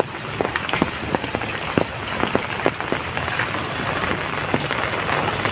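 Heavy rain falling steadily, with many large drops striking a nearby surface in sharp separate hits over the hiss of the downpour.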